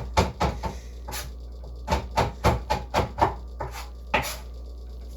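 A knife chopping chocolate on a wooden cutting board: a run of irregular sharp knocks, some in quick clusters.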